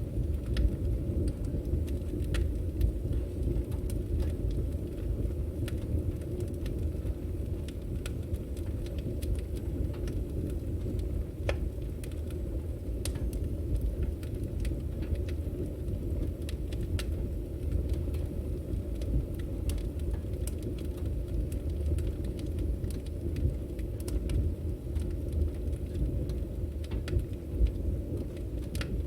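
Firewood burning in an open fire: a steady low rumble of flame with irregular sharp crackles and pops from the logs.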